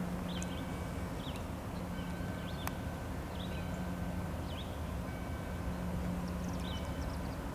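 Low, steady rumble of a diesel-hauled train creeping through the yard, with a bird chirping every second or so above it.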